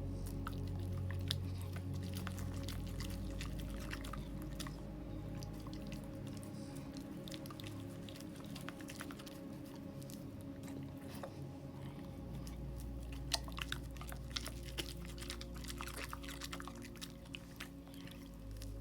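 A Labrador chewing, irregular clicks of its mouth and teeth, over soft background music.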